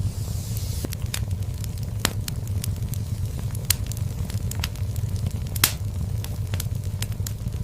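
Wood fire burning in a fireplace: a steady low rumble of flames with scattered sharp crackles and pops, two louder pops partway through.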